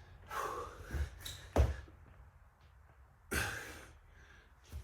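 A person breathing hard and gasping during burpees, with a few short thuds of hands and feet landing on the floor.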